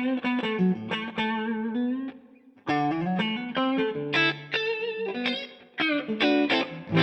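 Electric guitar played through a DVII guitar amplifier, a quick melodic run of single notes and short phrases with a brief pause about two seconds in.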